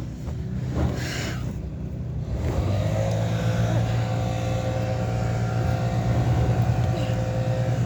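Gas-powered leaf blower running, a steady engine drone that settles into an even pitch about two and a half seconds in.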